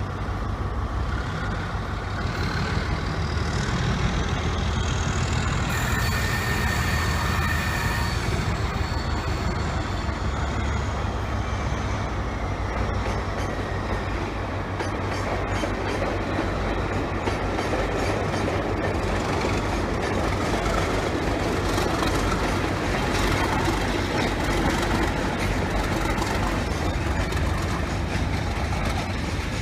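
A train moving along the track: a steady low rumble with wheel and rail noise, and a faint high whine that rises and then falls in the first half.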